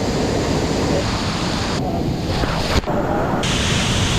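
Steady rush of falling water from a waterfall, mixed with wind buffeting the microphone, with a single sharp click about three quarters of the way through.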